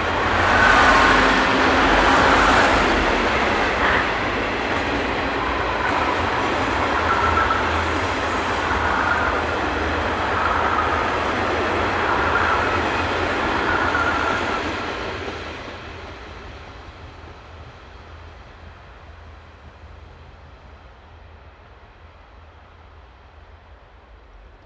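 A long passenger train running past close by on a curved track, a steady rumble and clatter of wheels and bogies with faint high whining tones now and then. From about fifteen seconds in it fades steadily as the train draws away.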